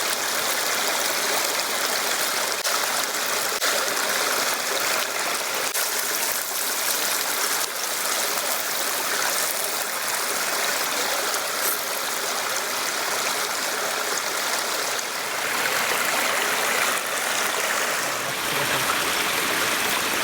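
Steady rush of flowing water, like a stream, with a faint high steady tone over it for most of the time.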